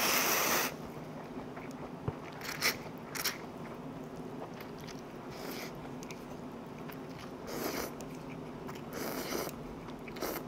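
A person chewing a mouthful of stir-fried instant ramen noodles, with a short loud burst of noise right at the start and scattered soft mouth clicks and smacks after it.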